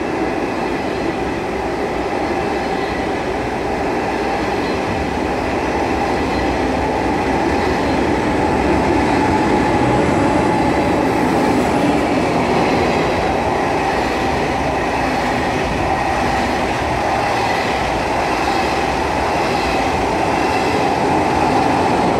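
SRT high-speed train departing, its cars rolling past at low speed: a steady rumble of wheels and running gear with a faint steady whine, growing slightly louder as the train gathers speed.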